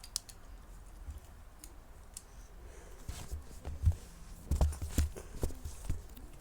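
Plastic Beyblade parts being handled and snapped together while a top is switched into its high mode: faint rustling, then a run of sharp clicks and knocks in the second half.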